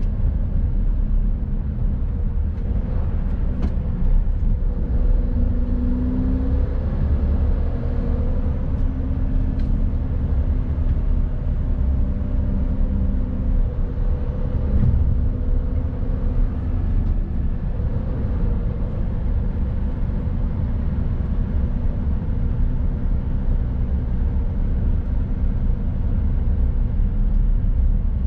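Mercedes-Benz Actros truck's diesel engine running under way, a steady drone over low road rumble, with a few light clicks.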